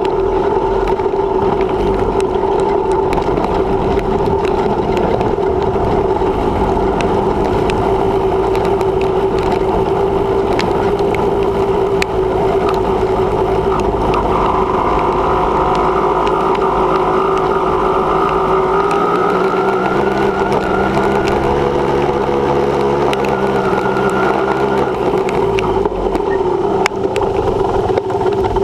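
Dirt bike engine running steadily under way, with a low rumble beneath it. Its note shifts up and down with the throttle about two-thirds of the way through.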